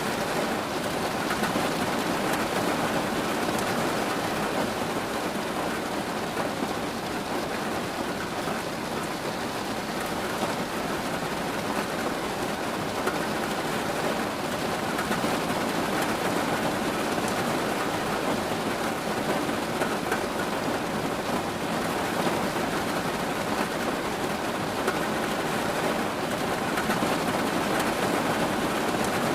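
Steady rain falling in an even, unbroken hiss, with no single drops or thunderclaps standing out.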